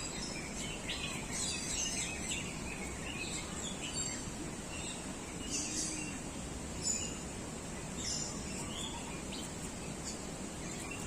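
Several birds chirping and calling on and off over steady background noise.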